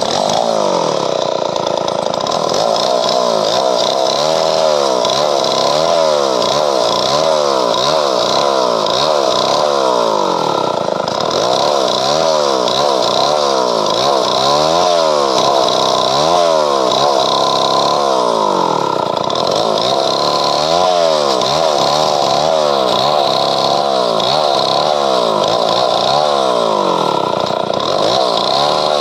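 Chainsaw running at high revs while cutting through padauk wood. Its engine pitch rises and falls again and again, about every three-quarters of a second.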